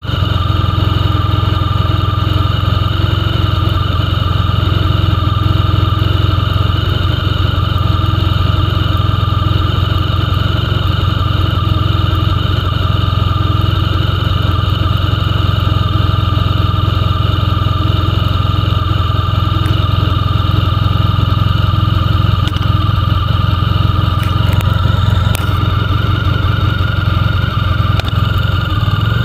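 Motorcycle engine idling steadily, picked up close by a camera mounted on the bike.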